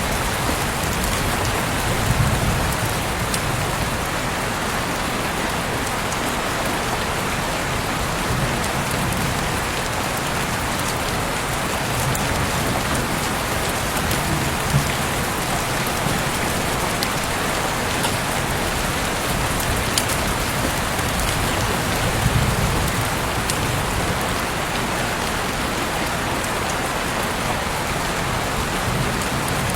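Heavy rain falling steadily, a dense even hiss with scattered sharp drop hits on nearby surfaces and occasional low swells.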